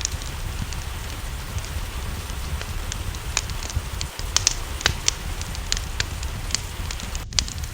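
Wood fire crackling, with sharp irregular pops and snaps, over the steady hiss and low rumble of falling rain.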